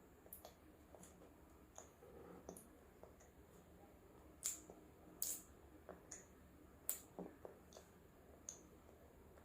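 Faint close-miked mouth sounds of a person chewing food: scattered soft clicks and smacks, a few sharper ones around the middle.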